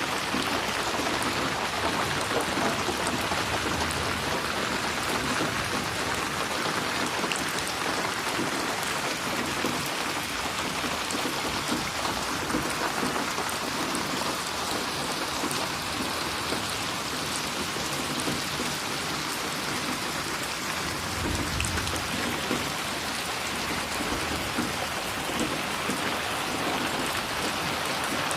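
Steady rain falling and splashing on a surface: an even, dense hiss of many drops with no breaks. A brief low rumble swells about three-quarters of the way through.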